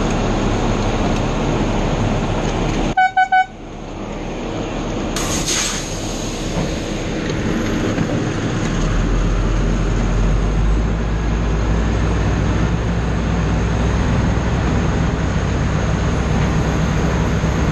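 Steady engine rumble with wind-like noise. About three seconds in, three short, evenly spaced high beeps cut through a brief dropout, and a sharp burst comes a couple of seconds later before the steady rumble builds back up.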